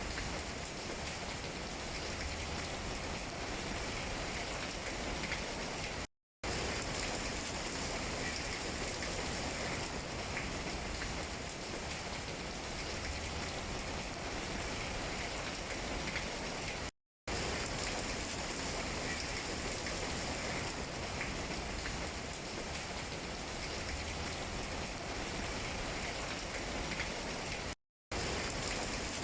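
Steady rain falling on tree leaves, an even hiss with scattered drop taps. The sound cuts to complete silence for a split second three times.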